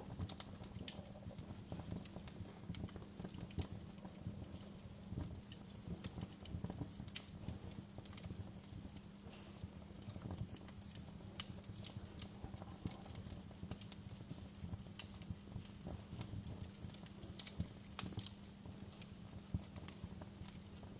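Wood fire crackling in a fireplace: irregular snaps and pops, some sharper than others, over a low rumble and a steady low hum.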